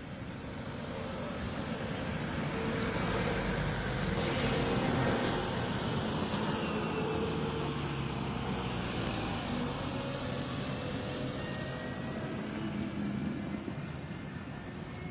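A motor vehicle passing on a road over a steady traffic rumble, swelling to its loudest about five seconds in and then fading.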